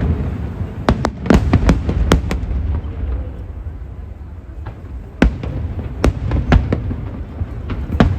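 Aerial fireworks shells bursting: sharp bangs in a cluster about a second in, a lull around the middle, then more bangs from about five seconds, over a steady low rumble.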